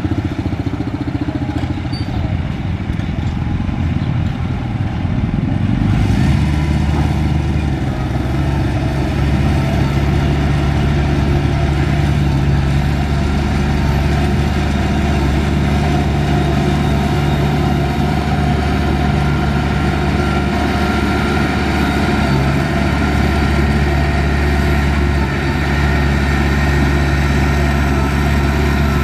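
Heavy earthmoving machine's diesel engine running steadily under work, growing louder and steadier about six seconds in.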